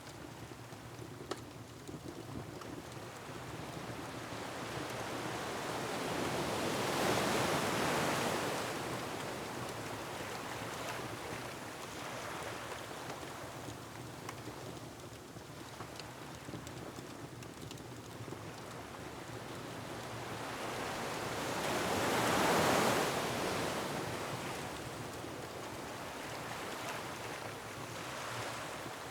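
Ocean waves surging and breaking twice, about fifteen seconds apart, over a steady rush of wind, with faint crackles and pops of a wood fire.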